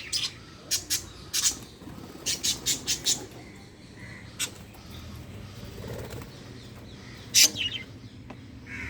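Pet budgerigars calling: short, sharp chirps in quick runs over the first three seconds, a lone chirp midway, and one loud call near the end.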